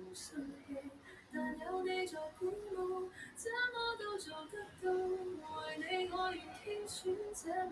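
Someone singing a melody in a high voice, with held notes, fairly quiet in the background.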